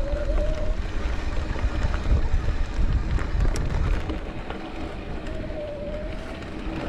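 Mountain bike rolling over a rough trail: tyre rumble and scattered rattles and clicks from the bike, with wind buffeting the microphone. A faint whine comes and goes twice.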